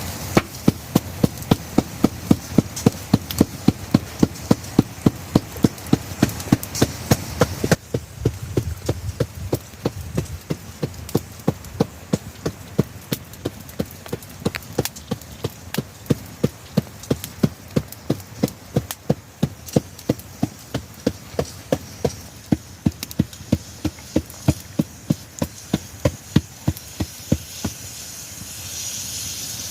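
Knife chopping green vegetables on a wooden board, in a steady run of sharp knocks about three a second, over the steady hiss of rain. The chopping stops about two seconds before the end.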